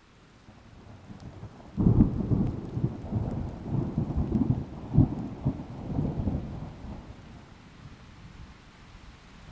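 A thunderclap breaks sharply about two seconds in and rolls on as a low, uneven rumble for about five seconds before fading, with rain underneath.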